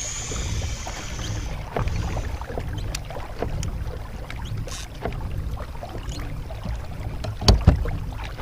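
Sounds aboard a kayak: a steady low rumble of wind and water against the hull, with scattered light clicks and knocks, the loudest a pair of knocks near the end. A short hiss runs through the first second and a half.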